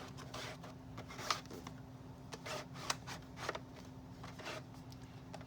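Small plastic toy-wardrobe sections being handled and slid into place: scattered light clicks and taps with some rustling.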